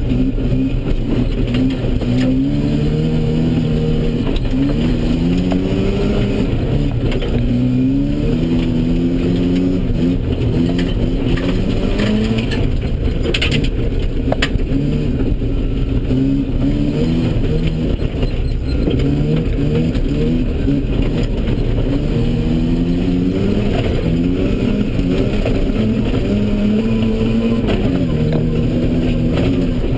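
Mazda RX-7's 13B rotary engine, heard from inside the cabin, revving hard and rising in pitch, then dropping back, over and over as the car is driven through a rallycross course. A couple of brief sharp clicks come about halfway through.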